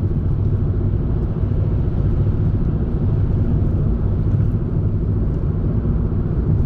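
Car in motion on the road: steady low rumble of tyres and engine, heard from inside the car.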